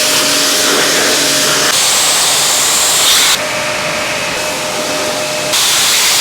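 Car wash water spray hissing loudly and steadily. Its tone shifts suddenly about every two seconds.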